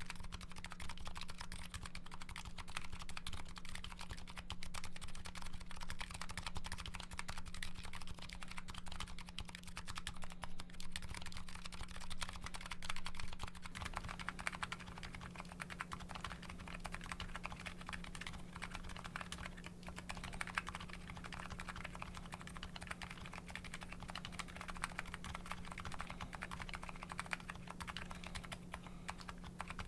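Continuous typing on a Nuxros Kraze custom mechanical keyboard with MetaKeebs electro-capacitive switches and GMK Hennessey ABS keycaps: a fast, steady stream of key clicks over a low steady hum. About a dozen seconds in, the tone of the typing changes as the recording switches to a different microphone.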